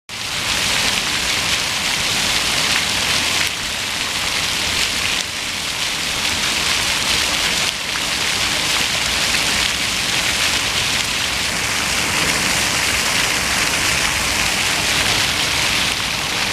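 Fountain water splashing steadily, an even hiss of falling water.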